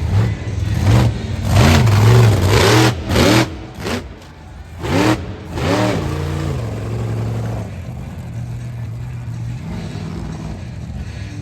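Monster truck engine revving in a series of sharp blips over the first six seconds, then settling into a steady run.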